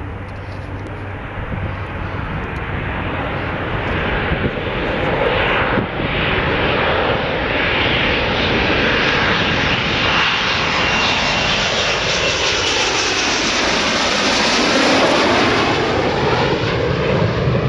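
Panavia Tornado jet's twin RB199 turbofan engines, growing louder as it approaches and passes on its arrival, the pitch sweeping down as it goes by.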